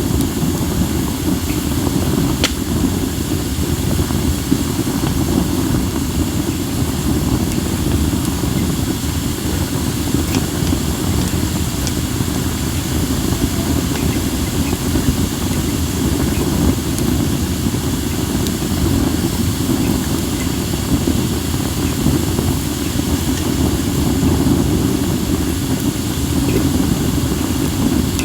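Acacia and mixed firewood burning in a fire pit, with a few sharp crackles and pops over a steady low rumble of wind buffeting the microphone.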